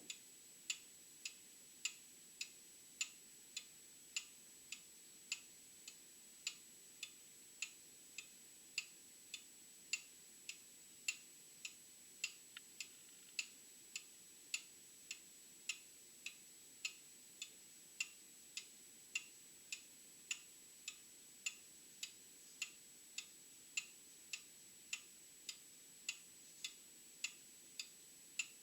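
Old clock ticking steadily, a little under two ticks a second, with alternate ticks slightly different in strength, tick-tock.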